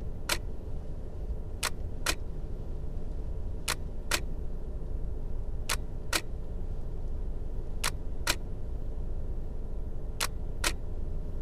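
Nikon DSLR shutter firing six long exposures about two seconds apart, each a pair of clicks about half a second apart as the shutter opens and closes, over the low steady hum of a car engine idling.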